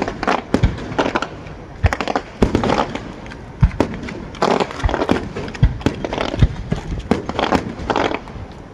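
Aerial fireworks shells bursting in quick succession: a string of sharp bangs, some with deep booms, amid bursts of rapid crackling.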